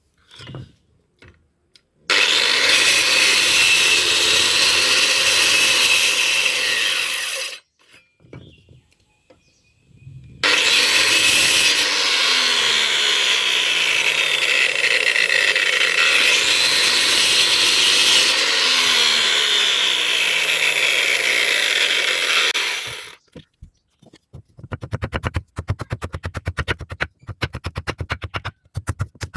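Electric grinder grinding steel in two long passes. A fast run of short, sharp strokes follows near the end.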